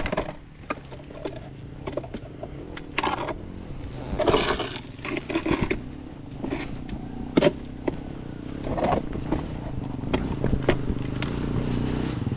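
Dirt bike engine running at low revs, with scattered knocks and clatter and a few short louder rough bursts.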